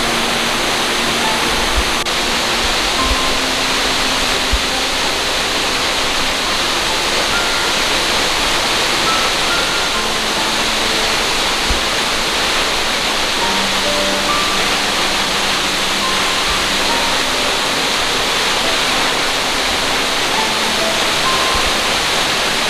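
Waterfall rushing in a steady, unbroken roar of falling water. Faint, sparse held notes of soft background music sit over it.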